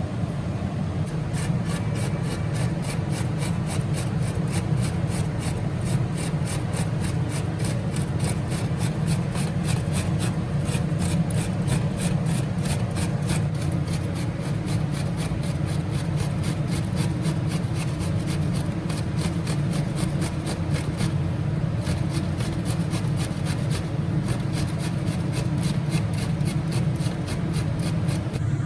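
Rhythmic scraping or rubbing in kitchen food preparation, several quick strokes a second, over a steady low hum.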